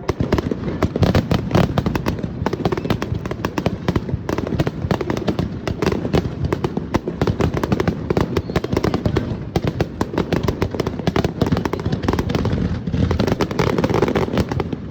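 Fireworks display: a dense, continuous barrage of shell bursts and crackling reports, many a second.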